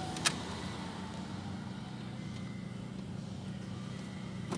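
Holden Cruze 1.8-litre four-cylinder engine idling steadily in Park, heard from inside the cabin. A sharp click comes shortly after the start and a softer one near the end.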